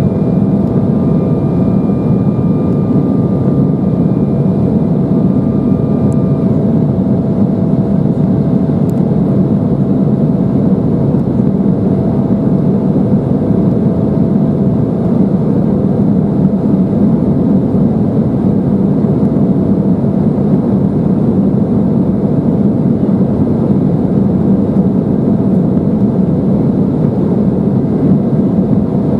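Steady cabin noise inside an Embraer 175 climbing toward cruise: the hum of its CF34 turbofan engines and the rush of air past the fuselage. A faint high tone runs over it and stops about six seconds in.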